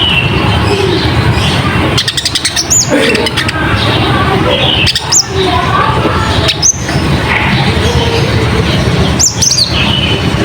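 Recorded lure song of a konin (kolibri ninja) sunbird. Sharp, high chirps that drop in pitch come every second or two, each led by a rapid ticking trill, over a constant loud hiss.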